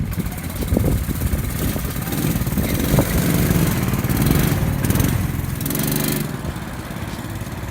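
Small petrol engine running, growing louder towards the middle and dropping back after about six seconds.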